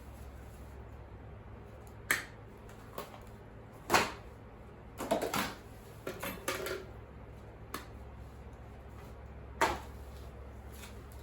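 Scattered knocks and clatters of scrap items being handled and set down, about seven separate hits with a short cluster in the middle, the loudest about four seconds in, over a steady low hum.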